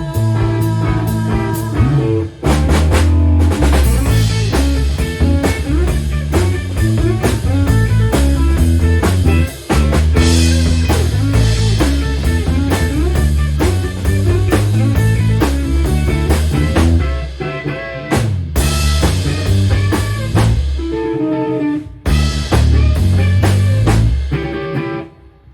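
Rock band playing: electric guitar, bass and drum kit in a steady beat, with a few short breaks where the music drops out for a moment.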